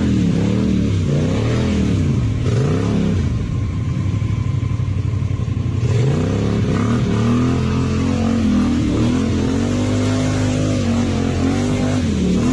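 Quad bike engine revving up and down over and over under load, easing off for a few seconds about a third of the way in.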